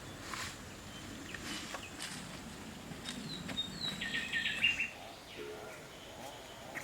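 Small songbird chirping in a quick burst of notes, with a few light clicks and knocks from handwork before it and a faint steady high whine under it.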